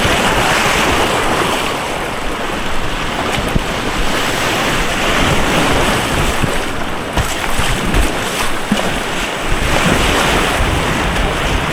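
Rushing white water of an artificial white-water kayak course: a loud, steady wash of turbulent water with scattered low thumps of water and wind buffeting the action camera's microphone.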